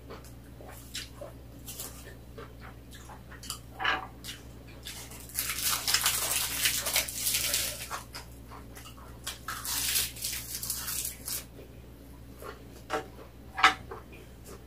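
Close-up eating sounds of a person chewing rice wrapped in roasted seaweed, with many small sharp clicks. There are two longer stretches of louder, noisier chewing in the middle.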